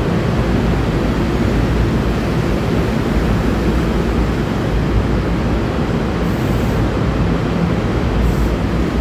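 NJ Transit Bombardier MultiLevel double-deck coaches rolling past at low speed as the train pulls out: a steady, loud rumble of wheels on the rails.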